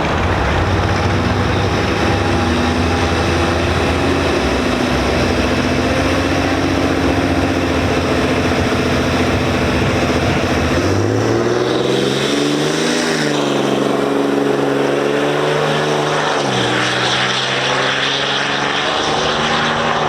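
A vehicle engine running at a steady drone, then rising in pitch about 11 seconds in. Its pitch dips and climbs again about 16 to 17 seconds in.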